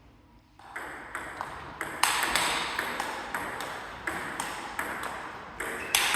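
Table tennis rally: the celluloid ball knocking back and forth off rackets and table in quick, regular clicks about three a second, starting about half a second in.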